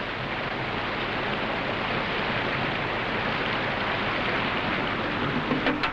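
Steady rushing of a white-water rapid.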